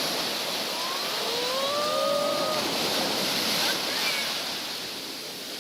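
Sea surf washing onto a beach, a steady rushing hiss. About a second in, a long rising call, most likely a voice, sounds over it for about a second and a half.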